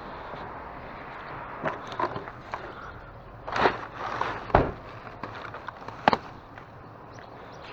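A few knocks and scrapes of a small wooden table with a Formica top being handled and shifted, over a steady outdoor background noise. The loudest knocks come about halfway through, and there is one sharp click a little later.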